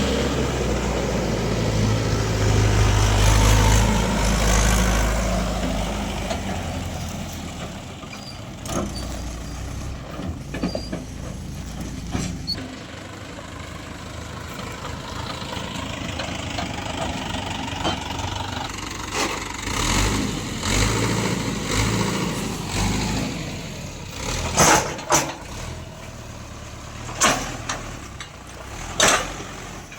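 Heavy diesel machinery engine running, loud for the first few seconds and then fading to a lower steady level, with several sharp knocks in the last ten seconds.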